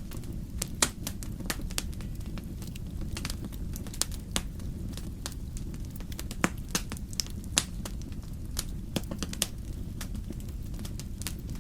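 Wood fire crackling in a fireplace: irregular sharp pops and snaps over a steady low rumble, with a few louder pops scattered through.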